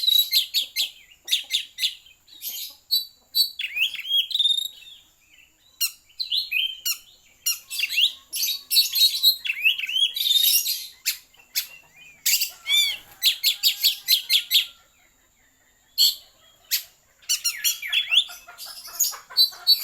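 A pet songbird singing in quick runs of high chirps and short rising whistled notes, broken by brief pauses between phrases.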